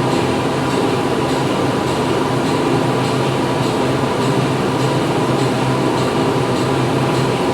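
Factory machinery running steadily: a dense mechanical din with a low hum, overlaid with faint ticks that repeat about once or twice a second.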